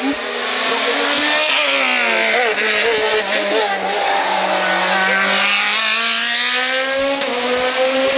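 Racing car engine on a hill climb, running hard: the revs fall with a few quick wobbles about two to three seconds in, then rise slowly and steadily as the car accelerates away.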